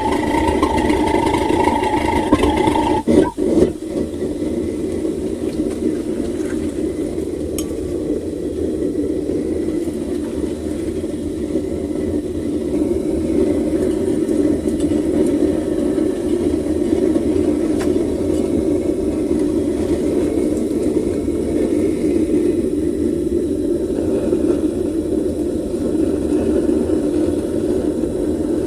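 Home-made propane furnace burner running with a steady roar. A higher whine over it stops about three seconds in, alongside a few brief knocks.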